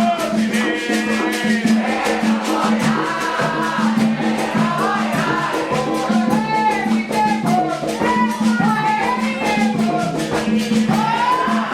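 Candomblé xirê music: voices singing a chant over fast, steady percussion dominated by shaken rattles.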